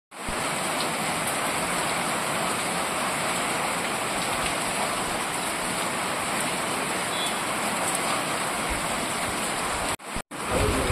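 Heavy rain falling on a water-covered paved street: a steady, even hiss. It cuts out briefly twice near the end.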